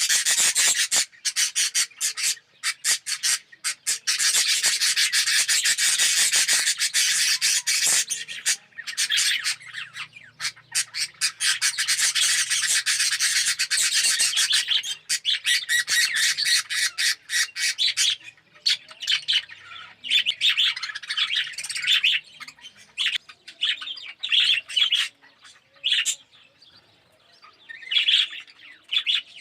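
A colony of budgerigars chattering and warbling: a dense, continuous chatter that breaks up in the second half into separate bursts of calls with short lulls between them.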